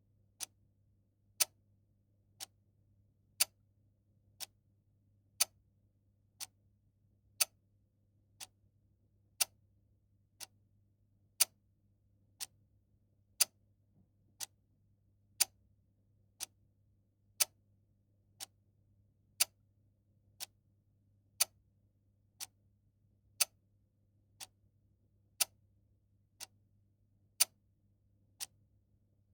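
Clock ticking steadily once a second, the ticks alternating louder and softer in a tick-tock pattern.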